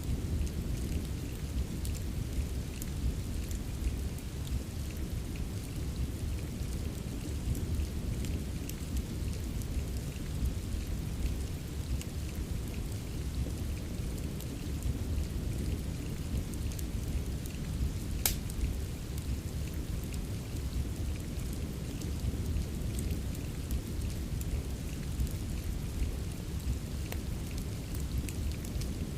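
Steady rain ambience mixed with a crackling fireplace: a constant low rumble under a hiss with scattered small crackles, and one sharp pop about 18 seconds in.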